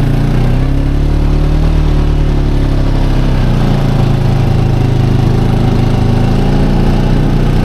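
Four-wheeler (ATV) engine running steadily under load, close to the microphone, labouring as it pulls through deep snow. Its pitch shifts slightly in the first few seconds.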